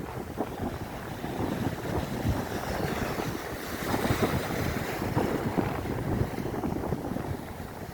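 Wind buffeting the microphone in irregular gusts over the wash of sea waves.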